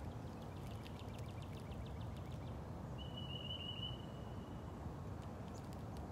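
Songbirds calling: a quick run of short chips about a second in, then a level, high trill lasting about a second, over a steady low background rumble.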